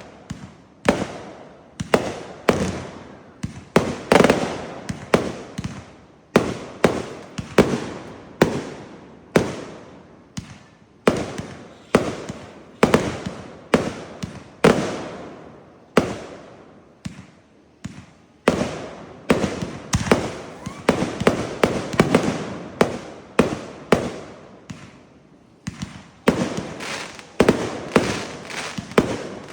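Consumer fireworks going off in a long string of sharp bangs, about one or two a second, each echoing away. The bangs thin out briefly about two-thirds of the way in, then come thick and fast near the end.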